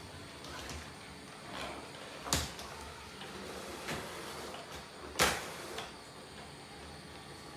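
Two sharp knocks about three seconds apart, with a few fainter taps between them, over a faint steady background.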